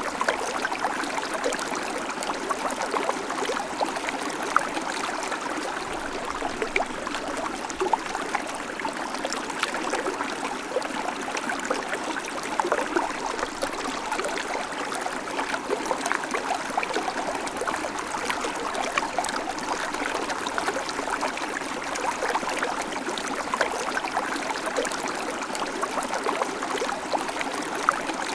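Babbling creek: water running and splashing over stones in a steady, even stream with many small bubbling splashes.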